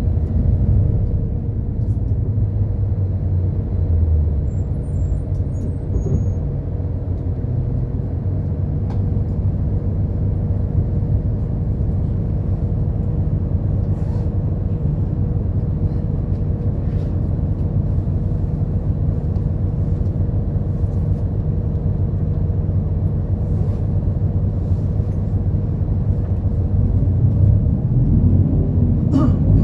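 Route bus running, heard from inside the cabin: a steady low rumble of engine and road noise with a faint steady whine. A few light clicks or rattles come through, and it grows a little louder near the end.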